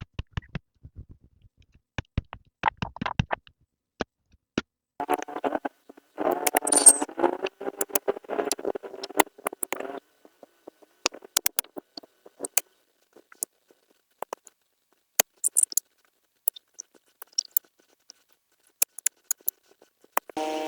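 Scattered sharp clicks and taps, irregular and well apart, with a stretch of a scratchy, wavering pitched sound about five to ten seconds in.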